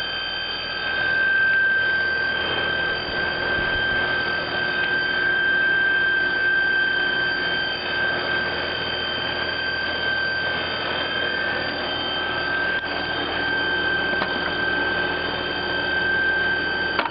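Trane XR12 heat pump running loudly, with a steady high-pitched squeal over an even rushing noise; it cuts off suddenly at the end.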